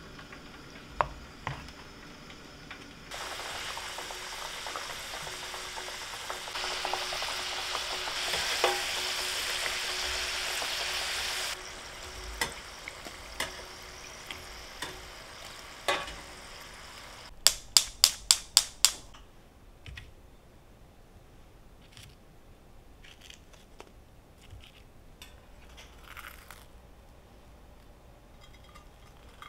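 Potato wedges frying in hot oil in a stainless steel pan: a steady sizzle starts about three seconds in, grows louder, and stops about eleven seconds in. Metal tongs and a mesh strainer then clink, with a quick run of six sharp clicks, and light clicks follow as food is handled.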